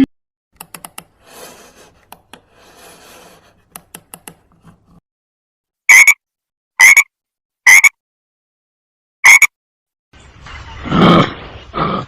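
Frog croaking: four loud, short croaks about a second apart, after several seconds of faint clicks and rustling. Near the end a different, lower animal call begins.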